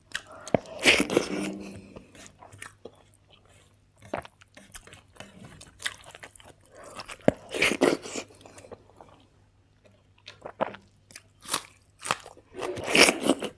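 A person eating: bites and chewing with crunches, coming in three bursts with short pauses between.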